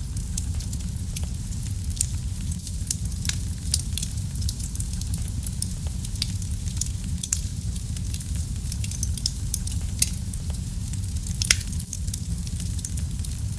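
Wood fire in a fireplace crackling, with many small irregular pops and a few louder snaps over a steady low rumble of the flames.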